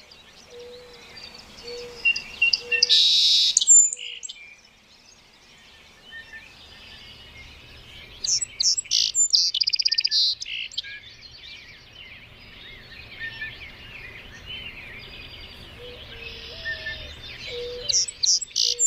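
Several birds chirping and calling, with rapid trills that come loudest about three seconds in, around eight to ten seconds, and again near the end. Short low notes repeat early and late.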